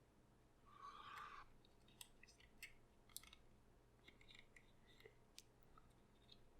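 Near silence with faint paper-handling noises: a soft crinkle of papercraft card being folded and pressed about a second in, then a few scattered light ticks.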